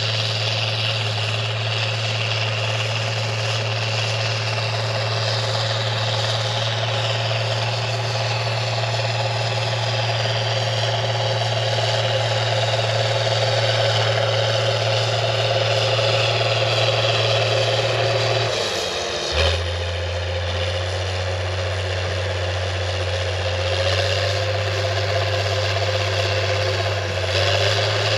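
International TD-15C crawler dozer's DT466 six-cylinder diesel running steadily. About two-thirds of the way through its note drops with a brief clunk, then comes back up near the end.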